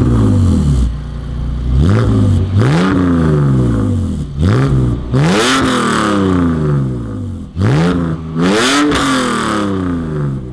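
BMW E46 330i's 3.0-litre M54 inline-six, running through catless headers and a rear muffler delete, revved repeatedly: about six rises in pitch, each falling back before the next.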